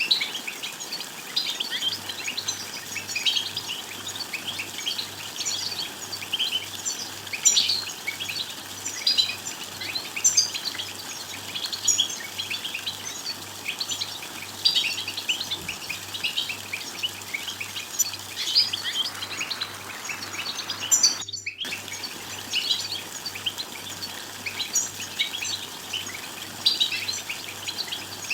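European goldfinch twittering and chattering: a dense, continuous run of quick high chirps and trills, cutting out for a moment about 21 seconds in.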